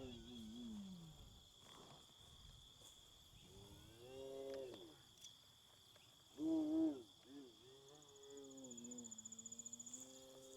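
Electric motor of an E-Flite Extra 300 RC plane rising and falling in pitch in short throttle bursts, loudest about two-thirds of the way through. Crickets trill fast in the background from near the end.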